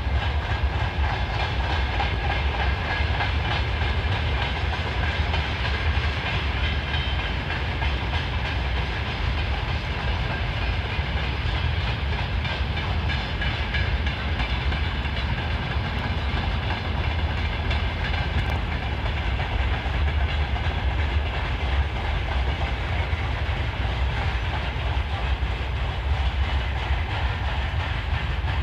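Freight train wagons rolling past on the rails, a steady loud rumble of wheels on track that holds evenly.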